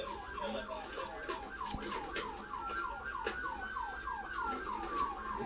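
Police car siren in yelp mode, a fast run of falling sweeps about four a second. A second, slower wailing tone rises and then falls over the middle of it.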